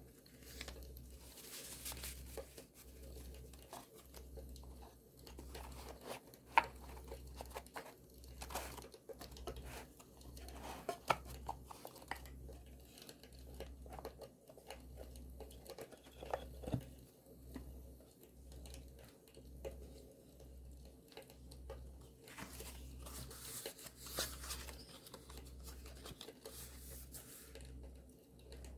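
Paper and journal materials handled by hand: tearing, crinkling and scissor snips, with scattered sharp clicks and a longer stretch of rustling near the end. A faint campfire crackle runs underneath.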